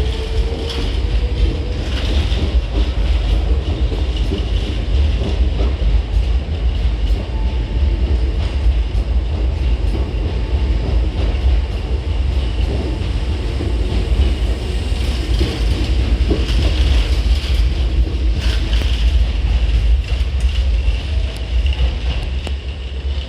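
Hankyu 6000 series electric train running on after departure: a steady, loud low rumble with wheel-on-rail noise and some clickety-clack.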